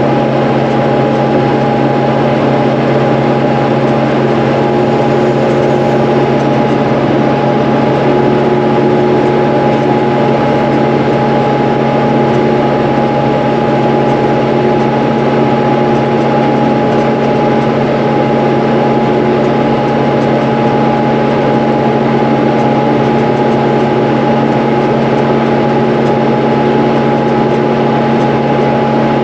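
Tractor engine running steadily at working speed while pulling a round baler through hay, with a thin steady whine over the engine's drone.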